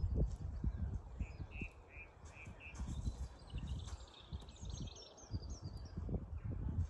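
Songbirds calling, with wind buffeting the microphone in low gusts. A run of about five short repeated notes comes first, then higher twittering ending in a quick series of short falling notes.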